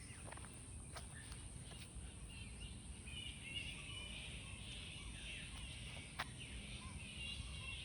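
Faint bird chirping and calling, repeated short phrases, over a steady low outdoor background noise, with a sharp click about six seconds in.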